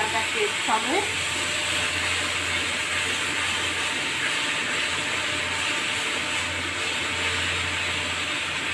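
Spice paste in a wok sizzling with a steady hiss as it is sautéed with a little water and stirred with a spatula.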